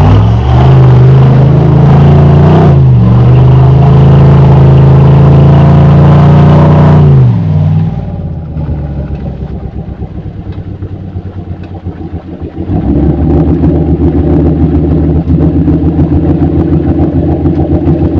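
Modified off-road truck engine revving hard and held high for about seven seconds, with a brief dip partway, as the truck climbs through rough terrain. The revs then drop sharply to a low rumble. A little after halfway the engine picks up again and runs at a steady, even throttle.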